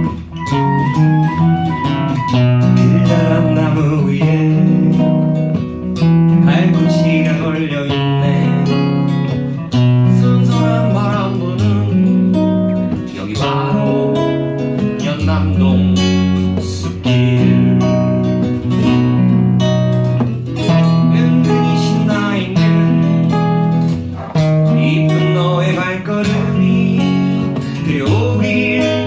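Acoustic guitar music with strumming, and long held melody notes carried over it.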